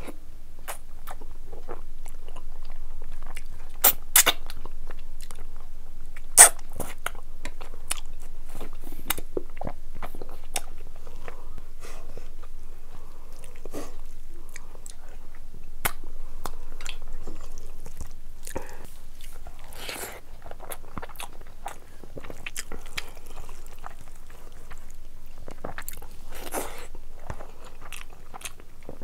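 Close-miked eating: a person chewing and biting mouthfuls of meat curry and rice, with a steady run of wet mouth clicks and smacks. Two sharp cracks, about four and six seconds in, are the loudest sounds.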